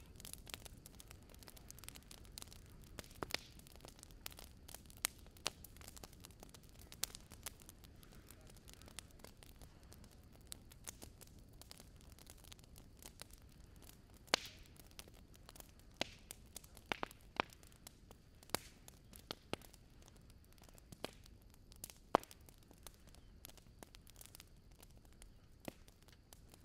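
Small driftwood fire crackling: faint, irregular sharp pops and ticks, some louder than others, over a low steady rumble.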